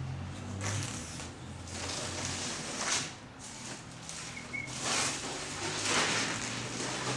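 Packaging and plastic wrap being pulled and torn off a large mirror, in several rustling bursts a second or two apart.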